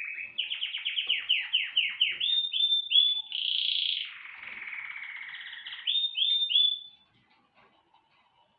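A songbird singing one long varied phrase: a rapid run of falling notes, a buzzy trill, then three slurred notes, stopping about seven seconds in.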